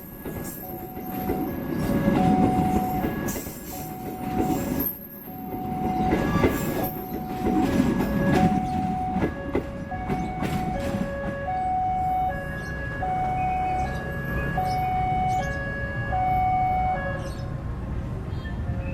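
Passenger train running past, its wheels rumbling and clicking over the rails. Over it a two-tone electronic warning signal alternates steadily, changing tone about once a second, typical of a railway level-crossing alarm.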